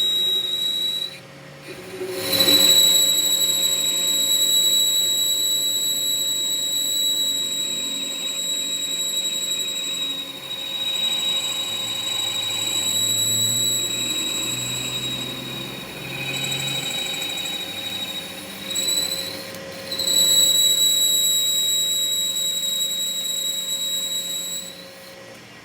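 Steady high-pitched squeal from metalworking machinery, held at one pitch. It breaks off briefly about a second in and again near twenty seconds, then stops near the end.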